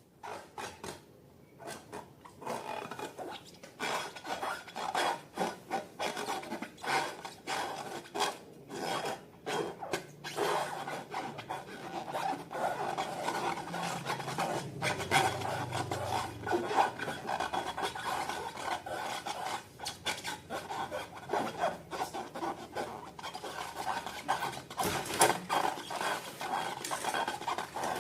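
Slime being worked by hand: a dense, irregular run of small sticky crackles and clicks with rubbing, starting about a second in.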